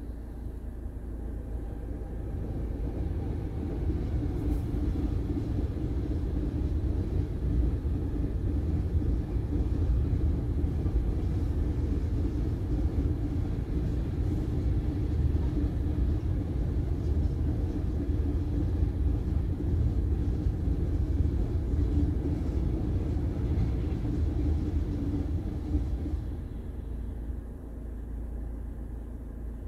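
Long freight train of hopper wagons passing a level crossing, a steady rumble that builds over the first few seconds and eases off near the end, heard from inside a car.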